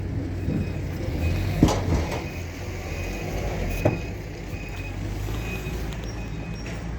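A diesel engine running with a steady low hum while a reversing beeper sounds in short high beeps about every three-quarters of a second. Two sharp knocks come about one and a half and four seconds in.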